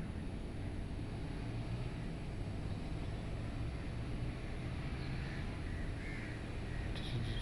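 Outdoor ambience: a steady low rumble with scattered bird calls, the loudest call near the end.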